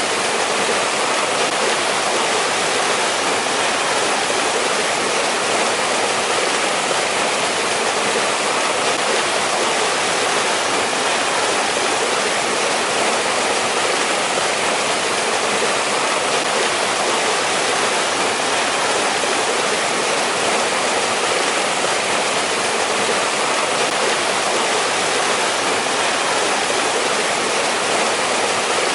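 Mountain valley stream running over rocks: a steady, even rush of water.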